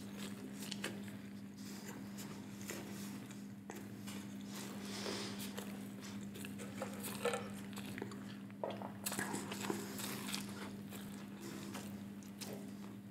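Close-miked chewing of fried potato pieces: short crunches and wet mouth clicks, over a steady low hum.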